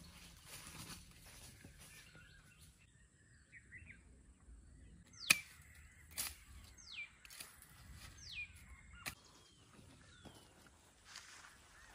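A bird giving about four quick falling whistles, the first and loudest about five seconds in, with a few sharp snaps and faint outdoor ambience around them.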